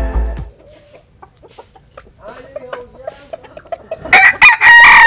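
Bantam chickens clucking softly, then a bantam rooster crowing loudly from about four seconds in. A music track cuts off at the very start.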